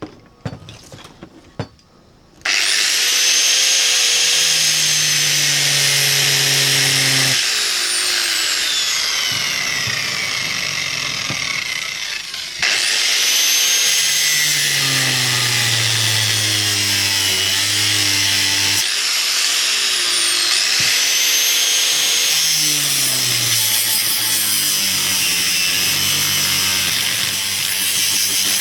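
A power tool cutting metal. It starts about two seconds in and runs loud and continuous, its motor pitch sagging and recovering as it bites. It eases off briefly about twelve seconds in, then carries on cutting.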